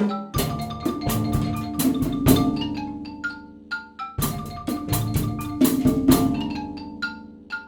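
Percussion ensemble playing: a xylophone melody of short ringing notes over drums and other struck percussion, in a steady rhythm with strong accented hits about four seconds apart.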